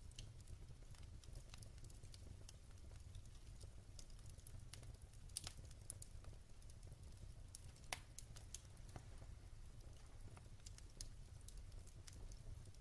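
Quiet wood fire crackling: scattered sharp pops and ticks over a low steady rumble, with two louder pops about five and eight seconds in.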